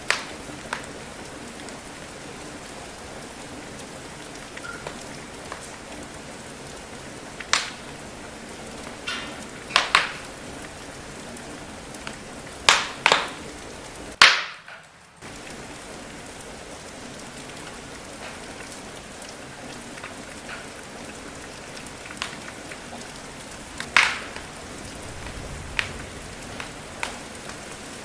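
Steady rain with a wood fire crackling over it: scattered sharp pops and snaps at irregular intervals, several loud ones clustered about halfway through. The sound cuts out for about half a second just after one of the loudest pops.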